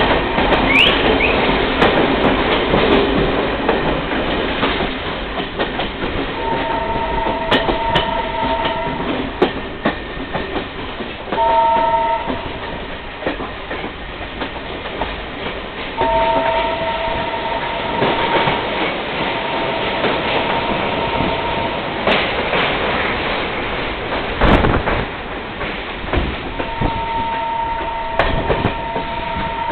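A passenger train running along the track, with the steady rumble and clatter of the wheels on the rails. The locomotive's two-tone horn sounds four times: a few seconds long about a quarter of the way in, briefly near the middle, a long one past the middle, and again near the end.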